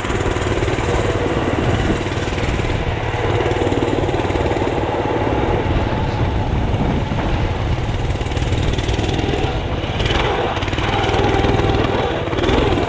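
Mini bike's small gasoline engine running under way as it is ridden, the engine note getting louder and brighter about ten seconds in.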